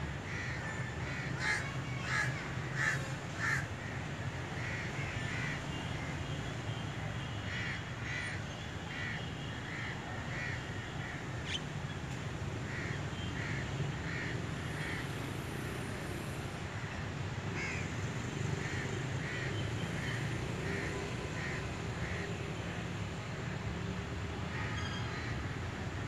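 Short bird calls repeated in spells of about two a second, over a steady low background hum.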